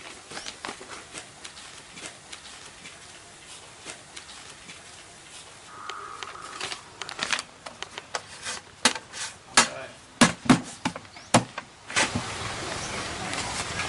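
A series of irregular sharp knocks and clicks, louder and more frequent in the second half.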